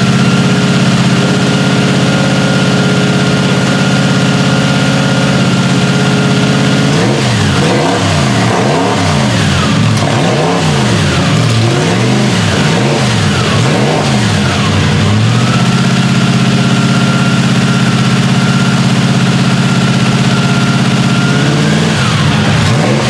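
A historic car's engine held at steady revs, then blipped up and down repeatedly, about once a second, for several seconds. It settles back to steady revs, then is blipped again near the end.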